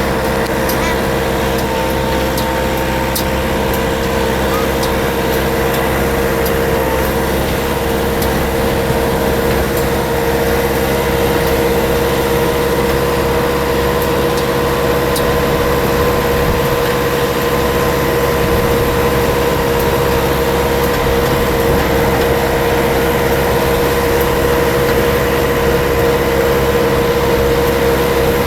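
Tractor engine running steadily at a constant speed, its note neither rising nor falling.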